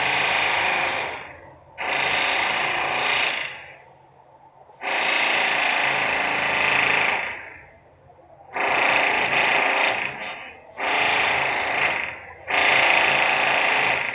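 Loud industrial power-tool noise in repeated bursts, about six of them, each lasting one and a half to two and a half seconds. Each burst starts abruptly and tails off, with short lulls between.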